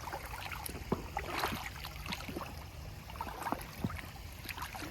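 Footsteps wading through a shallow creek: irregular splashes of water with sharp clicks mixed in.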